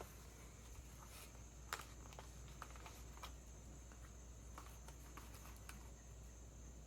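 Near silence: room tone with a steady low hum and a few faint, scattered clicks, the clearest about two seconds in.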